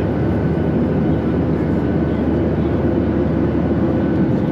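Steady low rumble of vehicle traffic, even and unbroken, with faint steady tones over it.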